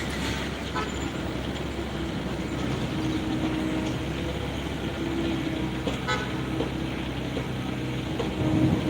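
Excavator's diesel engine running steadily, with a few short knocks, one just under a second in and another about six seconds in.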